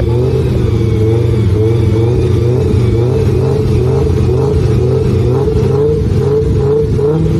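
Two drag-race cars' engines held at high revs on the start line, a steady loud drone that pulses regularly a couple of times a second as the revs are held against the limiter before launch.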